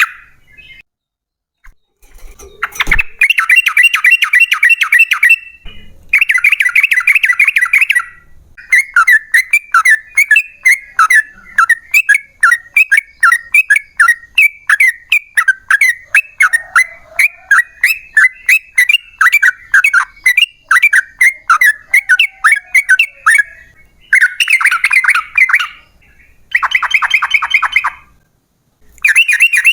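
Yellow-vented bulbul singing loudly: short bursts of fast bubbling chatter, then a long unbroken run of quick liquid notes, about three to four a second, lasting some fifteen seconds, then more chattering bursts. This is the long song used to call other bulbuls.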